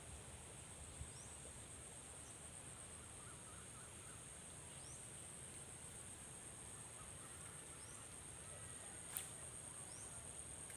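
Faint, steady high-pitched insect chorus, with short rising chirps every couple of seconds and a single sharp click about nine seconds in.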